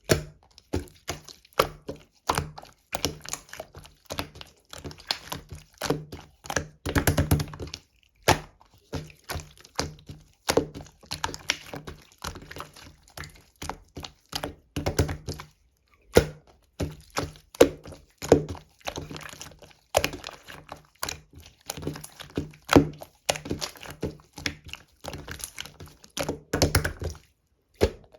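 Clear slime being pressed, folded and squeezed by hand, giving a dense, irregular run of sticky clicks and pops, with short pauses about 8 and 16 seconds in.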